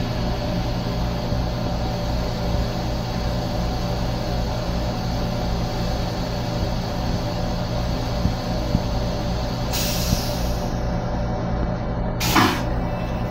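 Steady low hum and rumble of an M7 electric railcar heard from inside its restroom. A sudden hiss comes about ten seconds in and fades over a second, and a shorter, louder hiss follows near the end.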